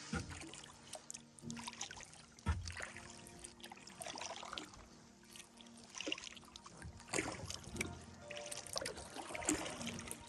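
Soft background music with held tones, over kayak paddle strokes dipping and splashing in lake water, with water trickling off the blade between irregular strokes.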